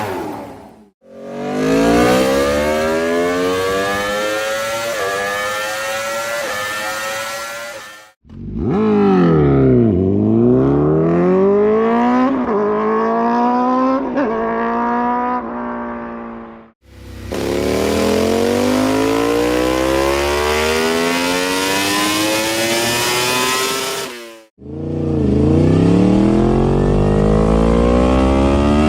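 High-revving sport motorcycle engines accelerating hard in several separate clips cut abruptly one after another. In each clip the engine pitch climbs steeply, drops back at each upshift and climbs again.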